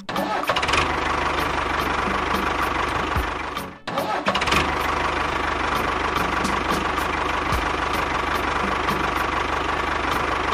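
A small engine running steadily with a regular ticking knock, cutting out briefly at the start and again about four seconds in.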